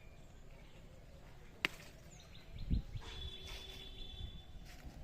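Outdoor ambience with faint bird chirps, broken by a sharp click about one and a half seconds in and a low thump just before the middle.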